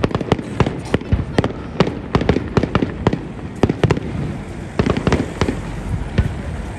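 Fireworks display: a rapid, irregular string of bangs and crackling pops, several a second.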